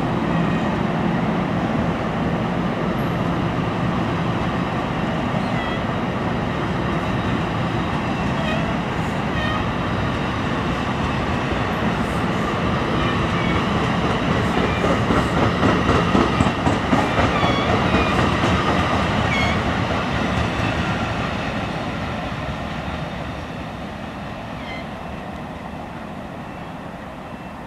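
Double-deck NJ Transit commuter coaches rolling past on a departing electric-hauled train: a steady rumble of wheels on rail with clickety-clack and brief high wheel squeals. It is loudest a little past the middle as the last cars go by, then fades steadily as the train pulls away.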